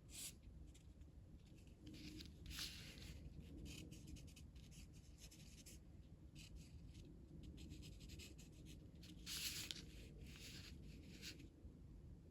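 Faint scratching of a colouring tool on paper as blue wave textures are drawn, in short irregular strokes, with louder strokes about two and a half and nine and a half seconds in.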